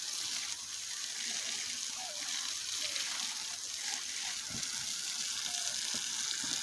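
Garden hose spraying water onto plants, a steady hiss.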